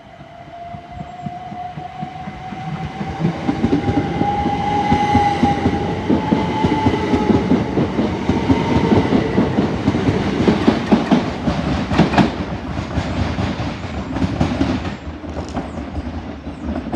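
Southeastern Class 375 Electrostar electric multiple unit pulling away, its traction motors giving a whine that rises in pitch over the first six seconds as the train gets louder. Then a run of rapid wheel clicks and clatter over rail joints and pointwork, easing near the end.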